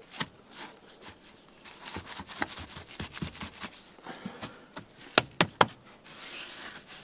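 Bricks being laid in clay mortar by hand: rubbing and scraping of brick and clay with small scattered knocks, and two sharper knocks a little after five seconds in.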